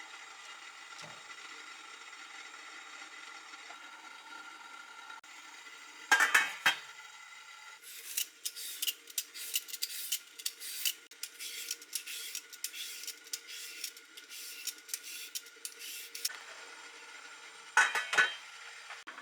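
Kitchen utensils clinking and clattering against dishes during cooking. There is a loud clank a few seconds in and again near the end, and a long run of quick light taps in the middle, over a steady background hum.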